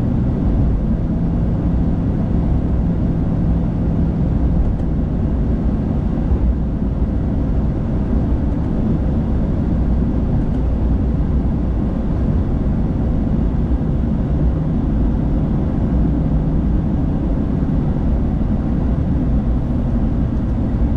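Steady road and engine rumble inside a moving car's cabin, with a low hum that comes and goes.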